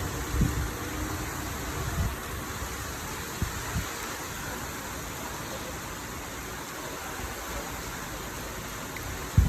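Steady rain falling, an even hiss, broken by a few low thumps, the loudest near the end.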